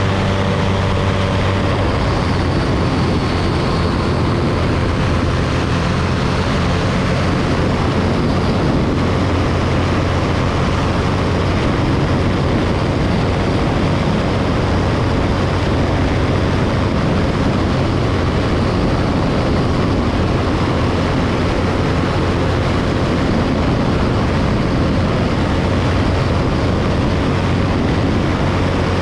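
Ultralight aircraft's engine and propeller running steadily in flight. The loud, unchanging drone sits under a thick rush of noise.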